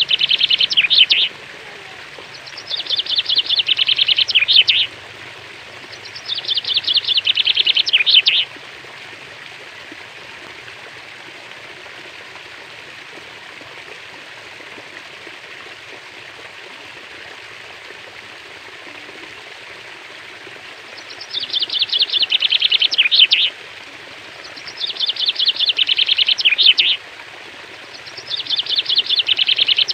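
A songbird singing a loud, rapid trilled phrase about two seconds long, three times in a row, then again three times after a pause of over ten seconds. Under it runs the steady rush of flowing water.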